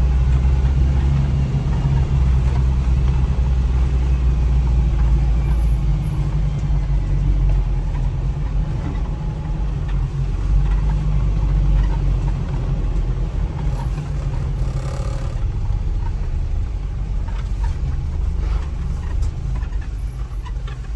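A motor vehicle driving, with a steady low engine and road rumble.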